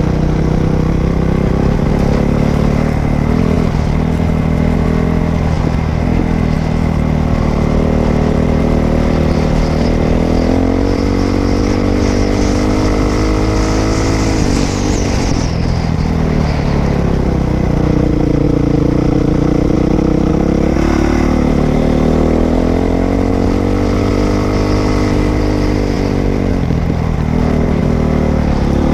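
Dirt bike engine running under way, its pitch climbing and dropping back several times as the throttle is opened and closed.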